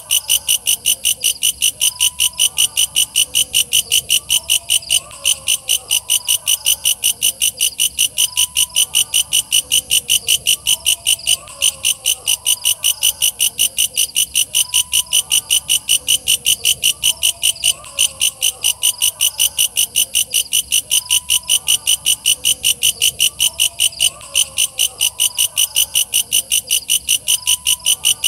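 Walang kecek katydid singing: a loud, shrill, evenly repeated chirp, about three a second, broken by a brief gap every few seconds. Faint lower calls carry on underneath.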